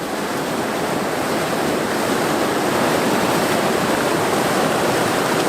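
Fast, high river water rushing in a steady, loud wash, as of rapids close by.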